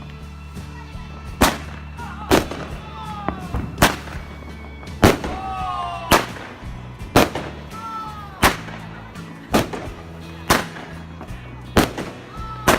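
Aerial fireworks going off in a steady series of sharp bangs, about one a second.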